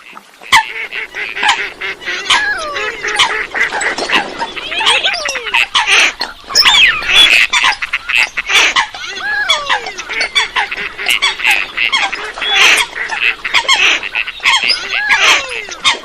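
A flock of waterbirds calling all at once: many overlapping short honks and squawks, each sliding down in pitch, in a dense continuous chorus.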